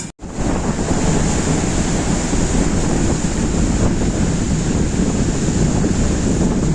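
Strong wind buffeting the microphone over storm-driven sea waves washing and surging. The sound cuts out for an instant right at the start.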